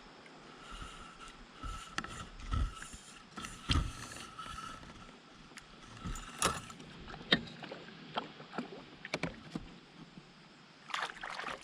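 Irregular light knocks and clicks from a fishing kayak, with a couple of louder taps about four and seven seconds in.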